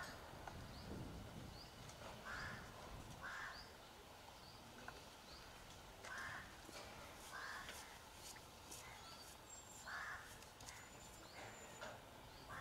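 Faint bird calls: about half a dozen short calls spaced one to three seconds apart, with fainter high chirps between them.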